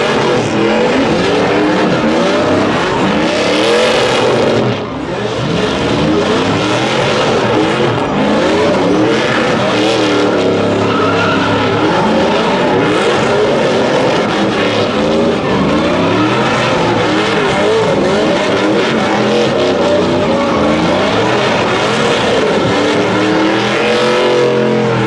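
Truck engine revving hard, its pitch rising and falling again and again, over tyre squeal from a burnout. It dips briefly about five seconds in.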